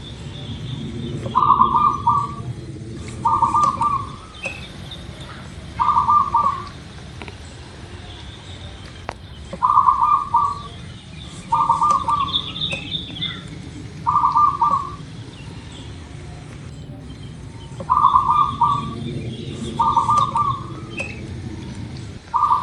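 Zebra dove (perkutut) song: short trilled coos in phrases of three, the phrase repeated about every eight seconds. Faint high chirps of other small birds and a low steady hum lie underneath.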